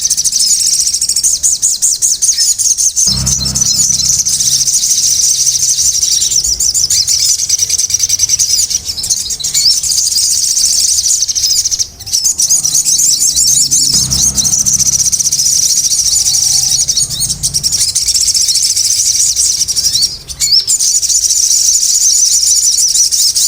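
Sogon songbird singing a fast, unbroken string of high-pitched chirps and trills, with two brief breaks, about halfway through and near the end. A faint low hum runs underneath in places.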